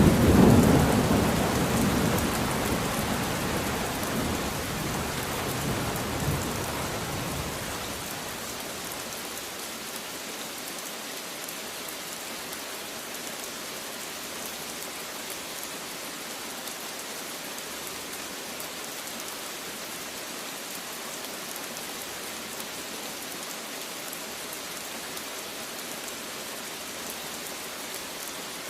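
Steady rain falling, with a roll of thunder at the start that rumbles away over the first seven or eight seconds. After that only an even rain hiss remains.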